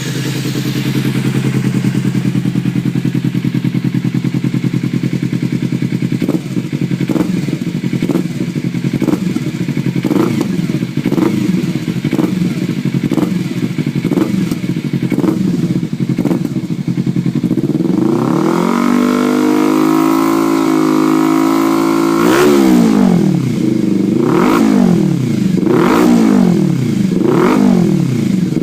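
Kawasaki Ninja 250/300 parallel-twin engine through a carbon-fiber aftermarket slip-on exhaust, just started and idling steadily with a light regular tick. About two-thirds through it revs up and holds, then gets about five quick throttle blips, each rising and falling.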